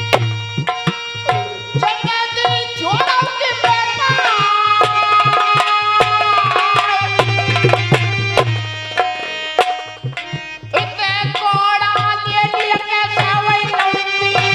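Instrumental folk music: a hand drum beating a quick, steady rhythm under a melodic lead that slides between notes and holds a long note for a few seconds. The music thins out briefly around ten seconds in, then picks up again.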